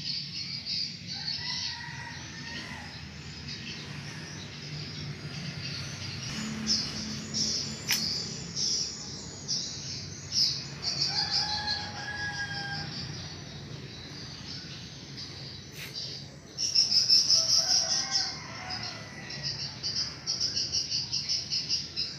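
Birds chirping and twittering, with runs of rapid high chirps that are loudest about three-quarters of the way through and again near the end, and a few short lower calls in between.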